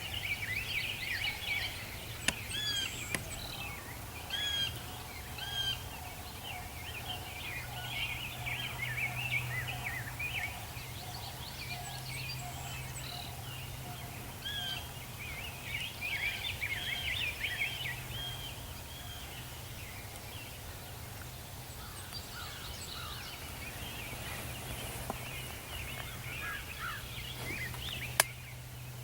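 Wild turkeys gobbling and calling, short repeated calls coming in clusters, over a steady low hum. A single sharp click comes shortly before the end.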